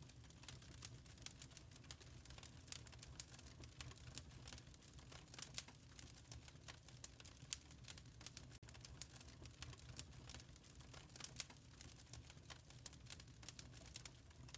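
Wood fire crackling in a fireplace: faint, irregular snaps and pops over a soft, steady low rumble.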